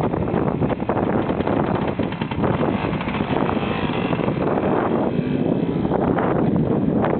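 1967 Pannonia 250 two-stroke motorcycle engine running steadily with a rapid, even firing beat, loud at close range; it is running for the first time.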